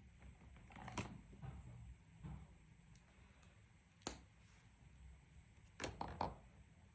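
Faint taps and clicks of coloring tools being handled: one about a second in, another about four seconds in, and three in quick succession near the end.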